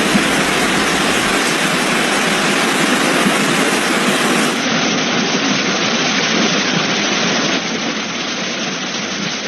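Loud, steady rush of water, as from heavy rain or torrential floodwater, without a break. About halfway through the sound turns slightly duller.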